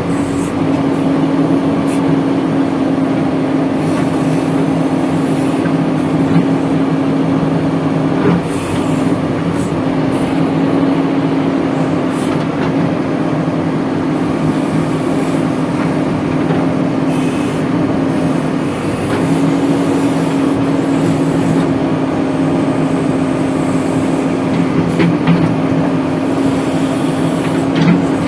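Heavy diesel engine running at a steady speed, with a few scattered knocks and clanks.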